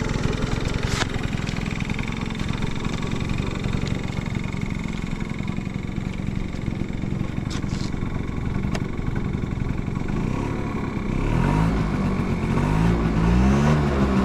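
Yamaha Champ 50 scooter's small two-stroke engine idling steadily, then revved up and down a few times in the last few seconds. It runs with no abnormal noises.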